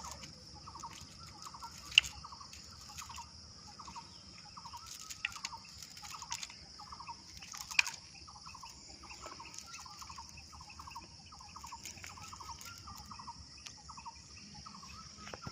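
An animal calling over and over in short, rattling notes, about two a second, over a steady high hiss. Two sharp clicks stand out, about two seconds in and near the middle.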